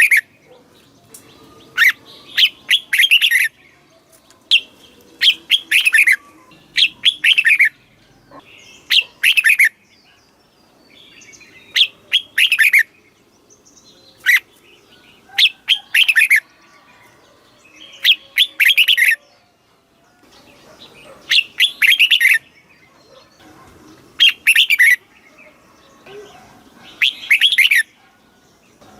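Red-whiskered bulbul singing: short, bright whistled phrases of quick notes, repeated every second or two.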